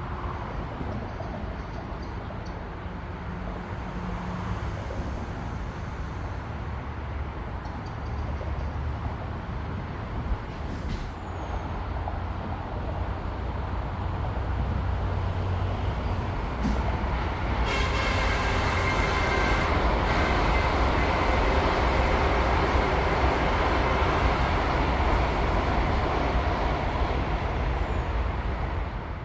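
High-speed train passing: its rushing noise builds over several seconds, with a brief whine as it nears, then stays loud for about ten seconds.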